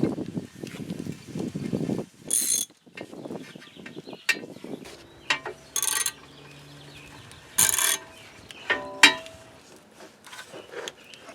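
Hand ratchet clicking in short runs, mixed with metal clinks and knocks, as bolts are run in on a replacement power transfer unit (PTU).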